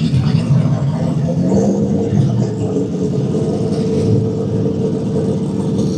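Loud car engine running continuously, its pitch drifting up and down a little: a street-driven drag car under light throttle.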